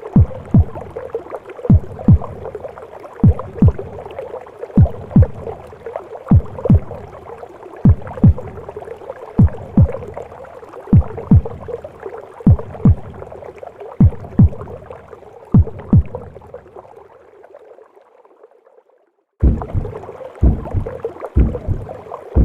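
Recorded heartbeat with womb sounds: paired lub-dub thumps about every second and a half over a steady whooshing rush. The sound fades out about 17 seconds in to a brief silence, then starts again with the beats coming faster, about one a second.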